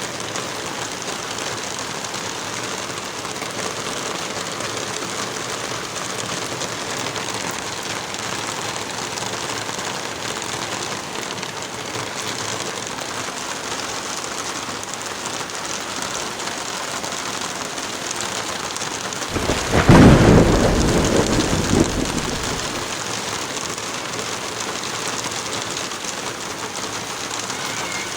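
Steady heavy rain, with one loud clap of thunder about two-thirds of the way through that rumbles away over a few seconds.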